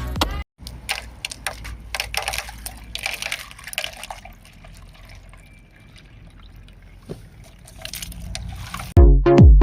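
Liquid trickling and pouring, with scattered small clicks and splashes. About a second before the end, electronic music with a steady drum-machine beat cuts in loudly.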